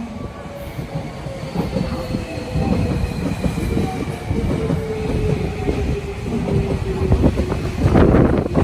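Tokyo Metro 13000 series electric train pulling into a station, its motor whine falling slowly in pitch as it brakes over the rumble of the wheels. Near the end a gust of wind buffets the microphone.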